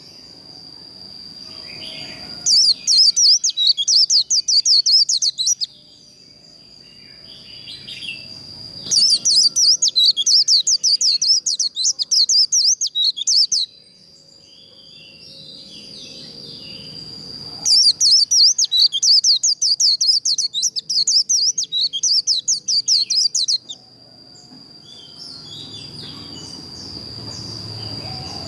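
White-eye (vành khuyên) singing its rapid, high, twittering 'líu' song in three bursts of several seconds each, over a steady thin high tone. Quieter sound builds between the bursts.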